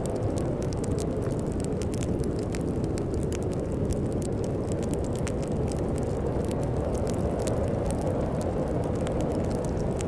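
Steady low wind of a snowstorm, with a wood fire crackling and popping in frequent small sharp snaps over it.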